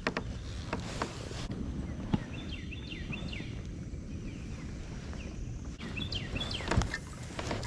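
A bird gives two short runs of quick, falling chirps over a steady low outdoor rumble. A few sharp clicks and knocks come through, the loudest a knock near the end.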